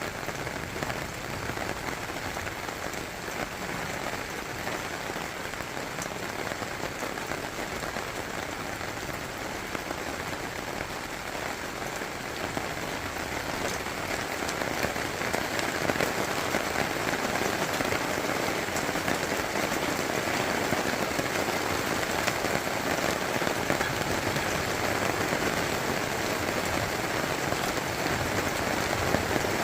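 Heavy summer rain falling steadily during a thunderstorm, a continuous hiss of drops on surfaces that grows louder about halfway through.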